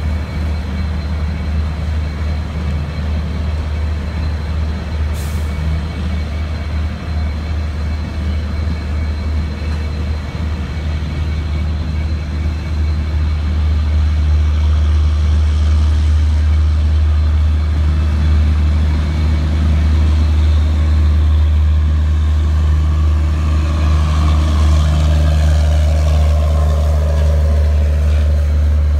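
Standing railway locomotive running with a steady low hum. From about halfway, a broader rumble and rattling noise builds and grows louder toward the end, as of a train moving on the line.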